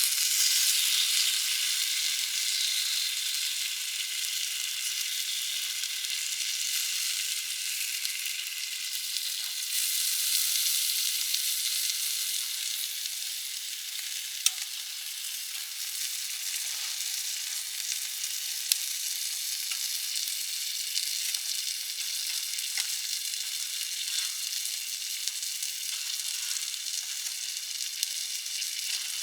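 A wood fire under a campfire grill, with a steady sizzling hiss and a few sharp pops, the loudest about halfway through.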